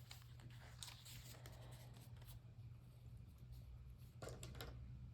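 Near silence: a few faint rustles and light clicks from handling paper collage materials, over a low steady hum.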